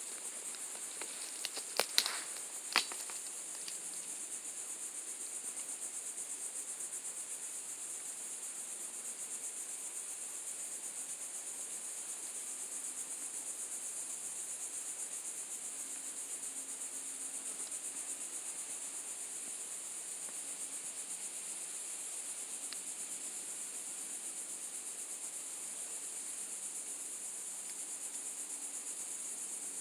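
Cicadas buzzing in a steady, high-pitched drone, with a few sharp clicks about two seconds in.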